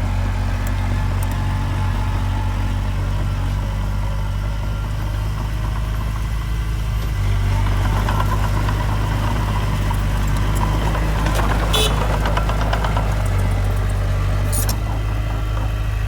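Heavy diesel earthmoving machinery running steadily with a deep, even drone. About halfway through it gets louder and busier with clattering, and two short sharp clanks come near the end.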